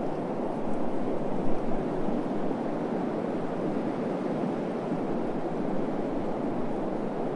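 Desert wind blowing as a steady rush, swelling briefly in a gust about a second in.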